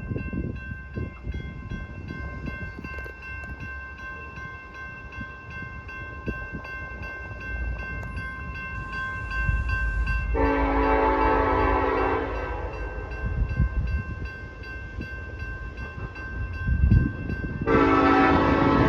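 Two BNSF diesel locomotives running light and passing, their engines rumbling. The air horn sounds twice: a blast of about two seconds roughly ten seconds in, and another starting near the end and still going.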